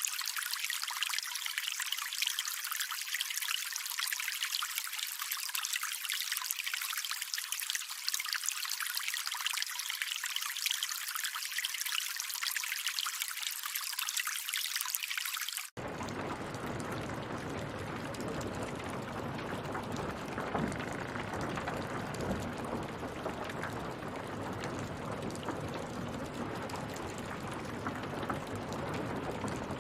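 Water trickling with a thin, high, fizzy sound, then about halfway through an abrupt cut to a fuller, steady rush of running water with more depth.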